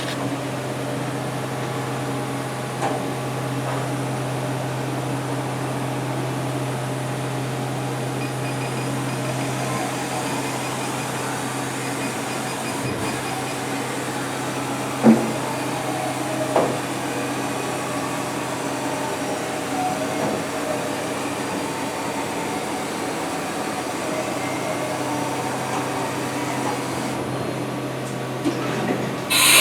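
1995 Haas VF-3 CNC vertical machining center running a demonstration program: a steady machine hum with several held tones, a low tone dropping away about ten seconds in, and a couple of short clicks about halfway through.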